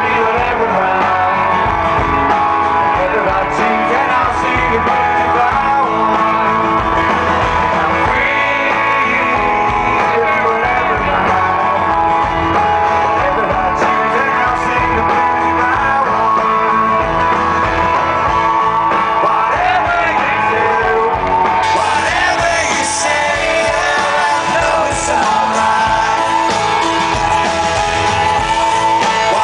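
A live rock band playing guitars and drums with sung vocals, recorded from the audience with poor, harsh sound quality.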